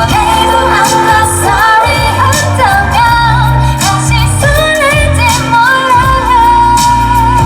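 Female pop vocals sung live over a backing track with bass and a steady beat. The voice moves through a wavering melodic run and ends on a long held note.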